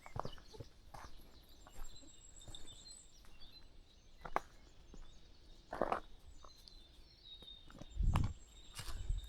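Footsteps crunching on a country path while birds chirp, with a low thump near the end.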